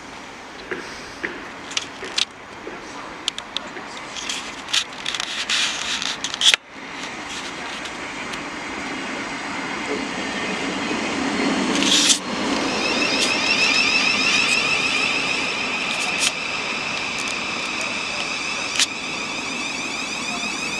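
Electric multiple-unit passenger train running along the platform. Its rumble builds over several seconds, then a steady high-pitched electrical whine sets in and holds. A few scattered clicks come in the first seconds.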